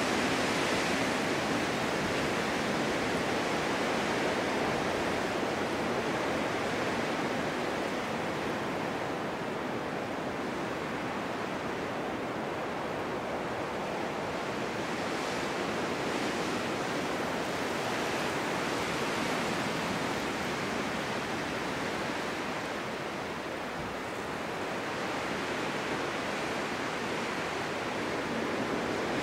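Snowstorm wind blowing as a steady rushing noise. It eases a little in the middle and builds again near the end.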